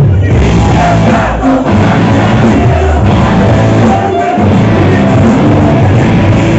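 Live rock band playing loudly.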